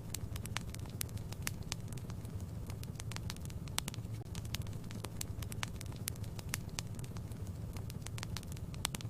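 Wood fire burning in a fireplace: a low steady rumble with irregular sharp crackles and pops, several a second.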